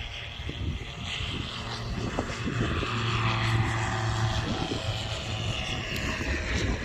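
Propeller aircraft flying past, its engine growing louder to a peak about midway and then easing, the pitch dropping in the second half as it goes by.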